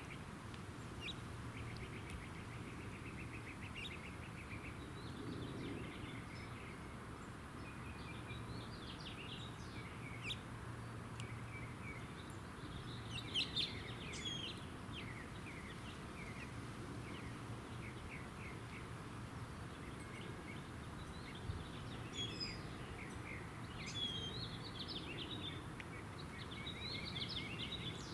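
Small songbirds chirping and calling: scattered chips, short buzzy trills and quick whistled sweeps, busiest about halfway through, over a steady low background hum.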